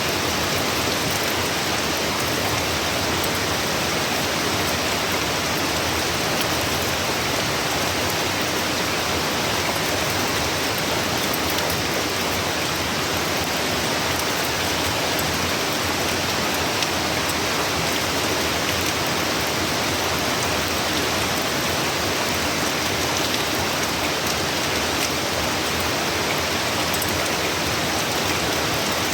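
Heavy hurricane rain falling steadily on surfaces, a dense, even hiss of rain with scattered drop ticks.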